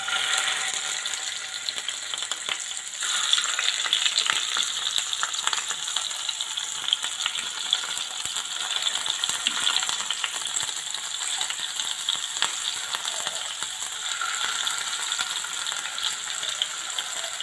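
Marinated chicken pieces shallow-frying in hot oil in a pan: a steady sizzle with scattered crackles and pops.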